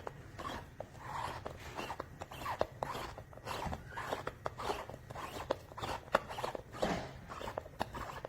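Irregular sharp clicks, taps and rustling crackle, like objects being handled and moved about.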